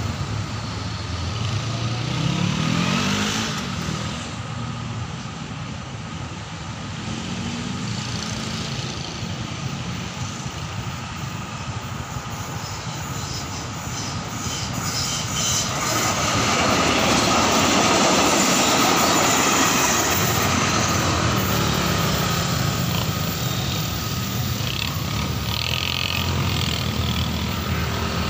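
Diesel train approaching and running past a level crossing, its engine and wheels on the rails loudest a little over halfway through. A steady high tone sounds across most of the clip, and a low engine note rises and falls early on.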